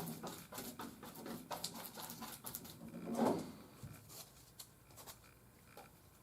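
Scissors cutting Bondo fiberglass cloth: a quick run of snips and rustles, with a louder rustle about three seconds in, thinning to a few clicks after about four seconds.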